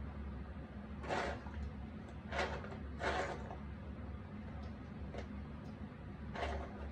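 Cardboard jigsaw puzzle pieces being handled and slid across the puzzle surface by hand: four short rustles, over a steady low hum.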